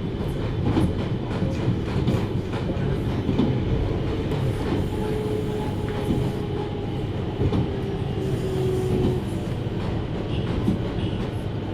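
Running sound inside a JR Hokkaido 733 series electric train: a steady rolling rumble with clicks of the wheels over rail joints, and a faint tone that falls slowly in pitch in the middle, as the train nears its next station.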